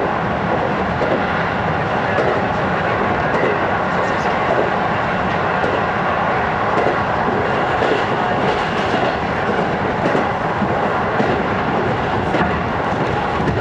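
205 series electric commuter train running at speed, heard from inside the passenger car: a steady rumble of wheels on rail with a few faint clicks from the track.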